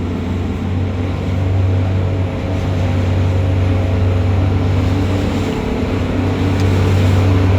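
Boat outboard engines running steadily at speed, a deep drone mixed with wind and rushing water, getting a little louder toward the end.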